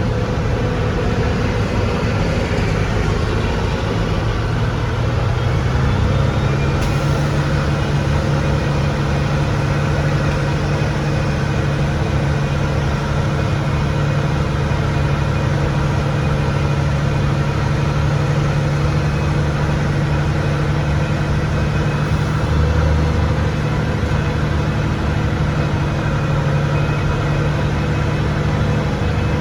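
An engine running steadily, which speeds up a few seconds in and then holds at the higher speed.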